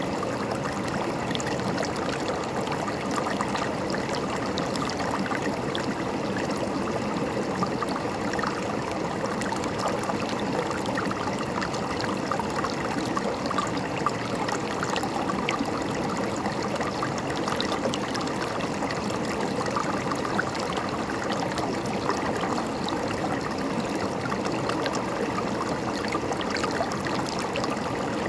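River water flowing steadily over rocks, a continuous rushing with small splashes and gurgles running through it.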